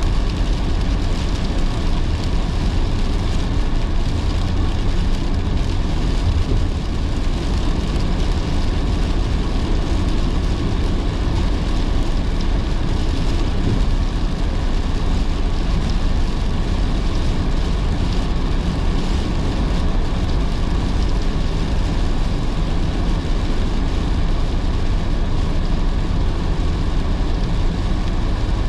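Car driving in heavy rain: steady road and tyre noise with rain on the car, an even wash that does not change.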